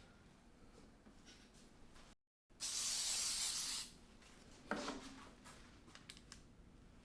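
An aerosol can of edible red spray colour hissing in one burst of just over a second as it is sprayed onto a plated dessert, followed by a short knock.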